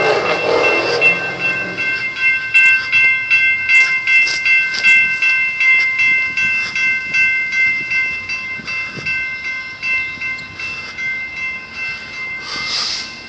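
Freight train of autorack cars passing through a road crossing, wheels clacking at the rail joints. Over it the crossing bell dings steadily, about three times a second. A brief hiss sounds near the end.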